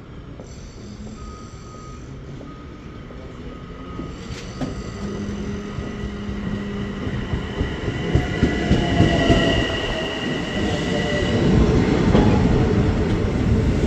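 A Long Island Rail Road train approaching, growing steadily louder. Over the second half, high steady tones from the wheels ring out above the rumble of the cars.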